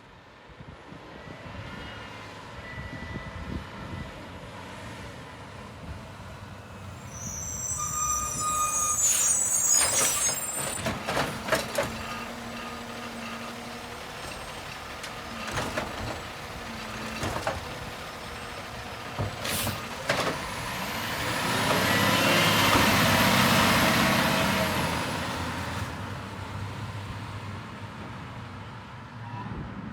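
City garbage truck working its collection route: the diesel engine runs steadily under a series of metallic clanks and bangs about eight to twelve seconds in, as a can is handled and dumped. About two-thirds of the way through comes a long hiss of air that swells and fades, like an air brake releasing.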